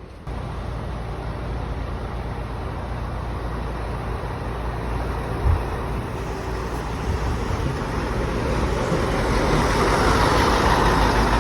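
Bus engine running with a steady low rumble that grows louder toward the end. There is one brief knock about five and a half seconds in.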